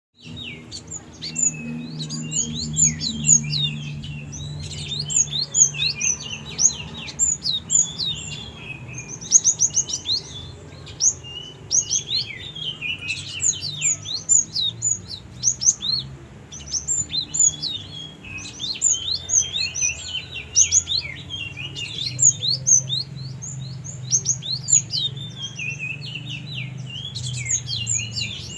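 Pet gelatik bird chirping and singing nonstop in rapid, dense runs of short high chirps, with a steady low hum beneath.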